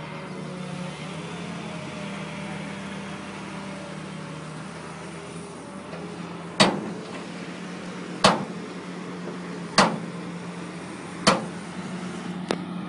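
Tractor engine running steadily at idle, with four sharp bangs about a second and a half apart starting halfway through, and a fainter fifth near the end.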